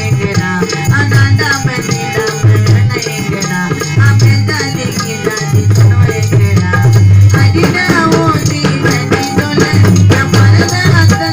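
Marana gaana funeral music: a melody that bends in pitch over a heavy, repeating low drum beat and a steady rattling shaker.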